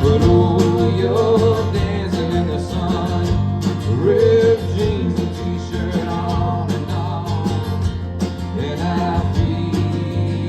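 Live band music: guitars over bass and a steady drum beat with regular cymbal ticks, and a bending melody line in the mid range.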